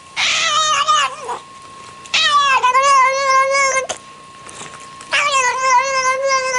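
A cat yowling: three long, drawn-out calls, each wavering in pitch, with a faint steady tone behind them.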